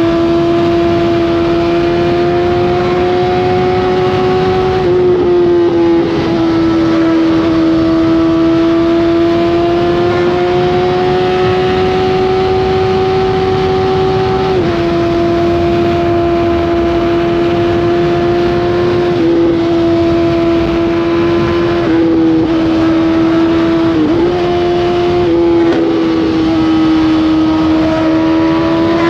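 Honda CBR1000RR's inline-four engine running steadily at high revs under way, a high, even note whose pitch creeps slowly up and settles. There are several brief dips and steps in pitch where the throttle eases, the clearest about five seconds in and halfway through.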